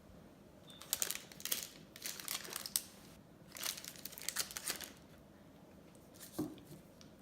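Ice cream packaging being handled, crinkling in two spells of bursts, with one soft knock near the end.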